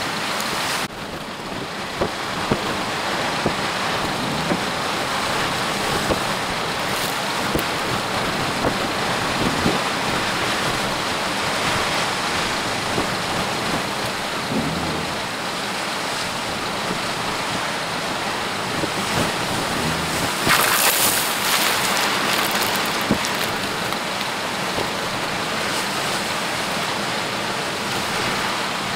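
Hurricane-force storm wind blowing as a steady rushing noise, with a stronger gust about twenty seconds in.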